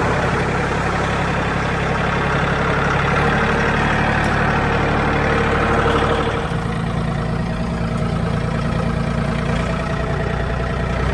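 A vehicle engine running steadily at a low, even pitch, its sound shifting about six seconds in.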